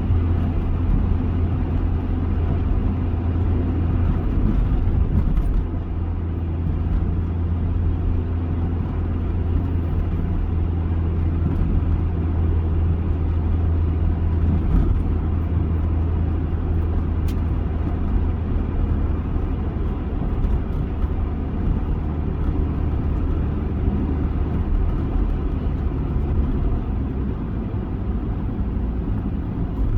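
Toyota Avanza driving, a steady low drone of engine and road noise that dips slightly about five seconds in.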